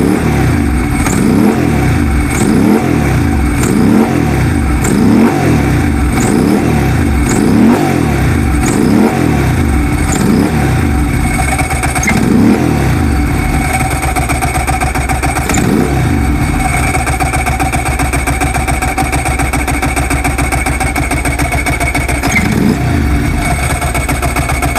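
Modified Ducati 900SS air-cooled L-twin engine running again after being revived. It is blipped on the throttle about once every second and a half for the first half, then settles to a steady idle with two more single blips later.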